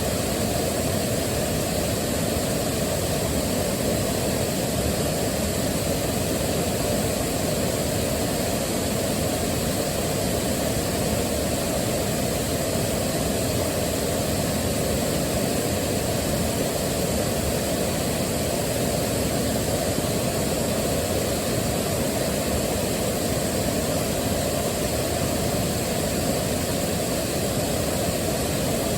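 Waterfall: a steady rush of falling water, deepest and loudest in the low range, with no change in level.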